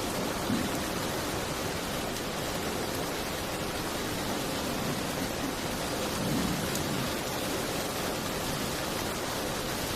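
Steady rain falling against a window, an even hiss, with a brief low rumble about half a second in and again at about six and a half seconds.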